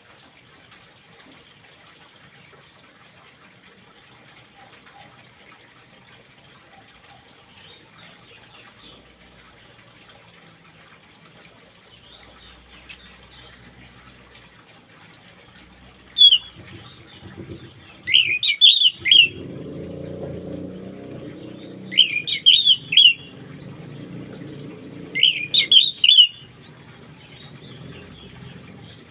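Orange-headed thrush singing in short, loud, rapid phrases, four of them in the second half, over a faint steady hiss like running water. A low rushing noise sits beneath the later phrases.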